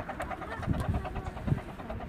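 15-inch-gauge miniature railway train running, with a rapid, even pulsing and a couple of low thumps.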